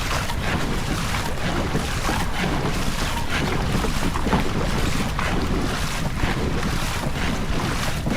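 Wind buffeting the microphone on a rowing boat, with water noise underneath.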